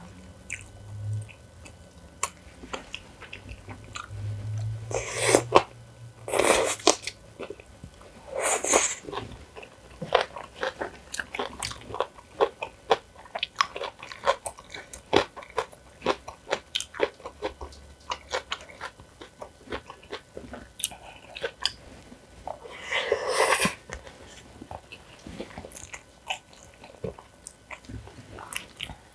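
Close-miked eating: a person chewing and crunching mouthfuls of jjajang noodles, rice and spicy kimchi, with many quick crisp crunches. There are a few louder moments about five to nine seconds in and again about twenty-three seconds in.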